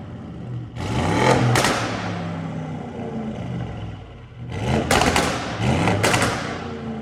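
Audi RS6 twin-turbo V8 with catless downpipes being free-revved: four quick, sharp blips in two pairs, each pitch rising and then falling back to idle.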